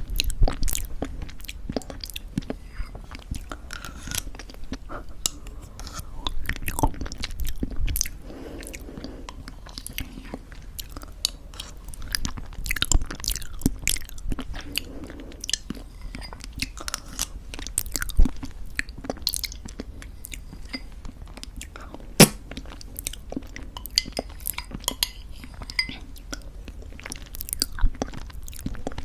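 Close-miked chewing of homemade granola in thick yogurt: a steady run of irregular crisp crunches and soft wet mouth sounds.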